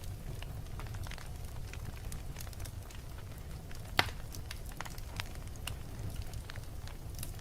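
Fireplace fire burning: a low steady rumble of flames with scattered small crackles and one louder pop about halfway through.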